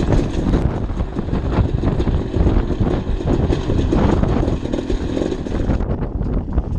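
Dirt bike engine running at low speed with an uneven, choppy note as the bike bumps over large rocks, with wind on the microphone.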